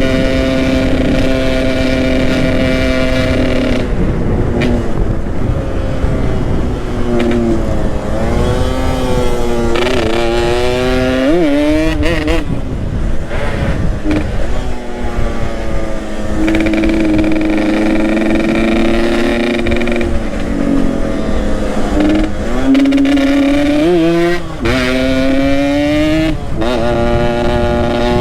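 Yamaha RX-King's two-stroke single-cylinder engine under way, its pitch holding steady for stretches and then rising and dropping sharply as it revs up and shifts gear, several times over. A steady rushing noise, most likely wind, lies underneath.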